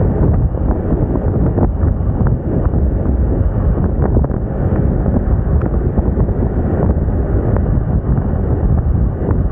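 Wind rushing and buffeting over the microphone of a moving Moda Moca 110 scooter, a loud steady rumble with the scooter's running and road noise mixed in beneath it.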